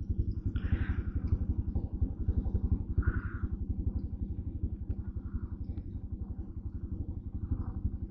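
Motorcycle engine idling with a steady, rapid, even pulsing, plus a couple of brief faint higher sounds on top.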